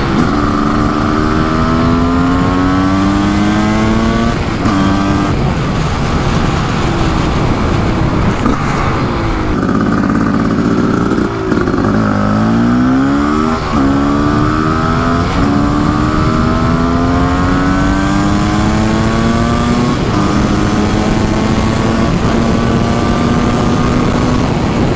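Kawasaki KX500's big-bore single-cylinder two-stroke engine, with an FMF expansion chamber, revving hard under riding. Its pitch climbs in each gear and breaks off at the upshifts. Around the middle the revs drop away, then it pulls up through the gears again.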